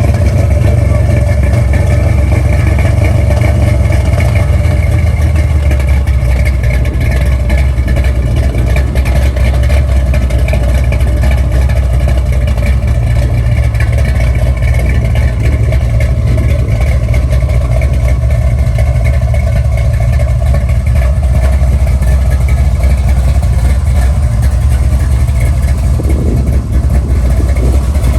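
Car engine running steadily with a loud, deep exhaust rumble just after a cold start, heard from behind the car at the exhaust.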